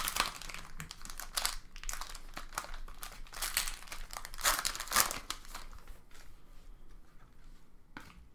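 Crinkling of plastic trading-card pack wrappers as packs are torn open and handled, in irregular rustling bursts that thin out after about five seconds.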